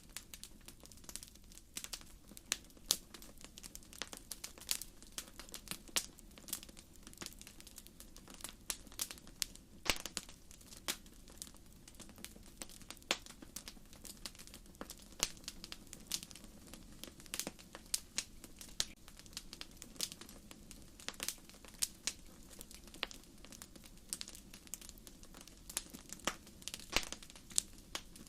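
Wood fire crackling: logs popping and snapping in frequent irregular sharp clicks over a soft steady hiss of flame.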